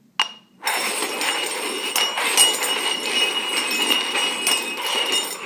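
Hard cups or containers clattering as they are shuffled rapidly over a hard surface, a dense run of knocks and clinks that stops suddenly, after one single knock at the start.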